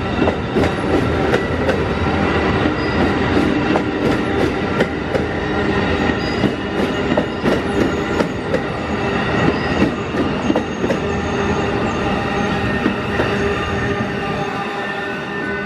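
Freight train cars rolling past at close range, wheels clicking over the rail joints, with a steady thin squeal from the wheels. The sound eases a little near the end.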